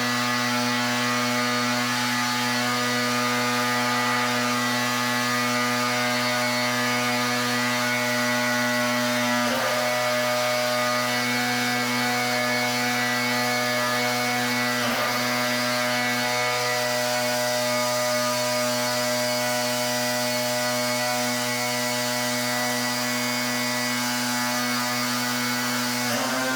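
Pressure washer running steadily, its machine hum under the hiss of the high-pressure water jet. The tone briefly wavers about ten seconds in and again about fifteen seconds in.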